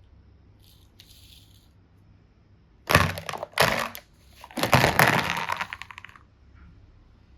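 Close-up crackling and crinkling from hands working the toys, boxes and slime, in three bursts starting about three seconds in. The last burst is the longest, at about a second and a half.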